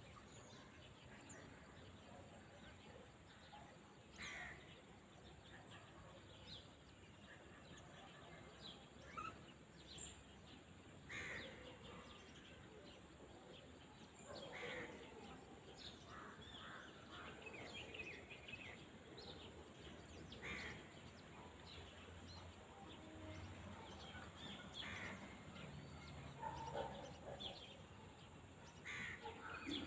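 Faint rural field ambience: distant birds calling now and then, a short call every few seconds, over a steady low background noise.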